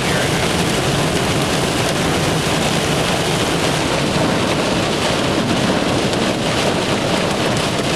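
Heavy rain pouring on a moving car's windshield and body, heard from inside the cabin as a steady, even rush together with the road noise of the vehicle.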